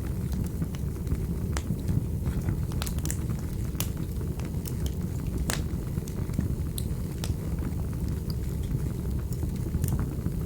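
Fireplace fire crackling: irregular sharp pops and clicks over a steady low rumble of the flames.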